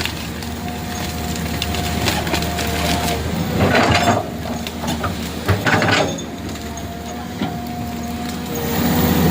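An engine running steadily with a thin whine, broken by two loud crunching, cracking bursts about four and six seconds in.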